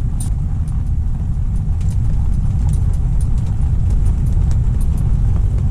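Strong wind buffeting the microphone: a steady, loud low rumble, with a few faint clicks over it.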